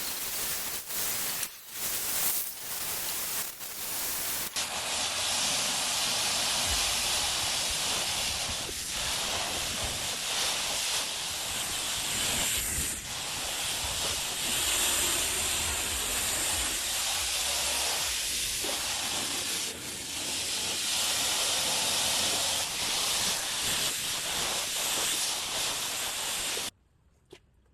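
Self-serve car wash pressure wand spraying water: a few short bursts, then a long steady spray that cuts off sharply near the end.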